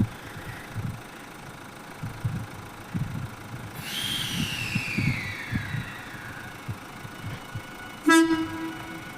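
A departing Wide View Shinano limited-express train (JR 383 series electric multiple unit) sounds one short horn blast about eight seconds in. A little before that, a high tone falls steadily in pitch for about two seconds.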